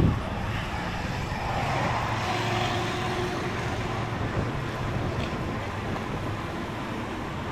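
Steady urban street ambience with road traffic going by, a vehicle passing a couple of seconds in.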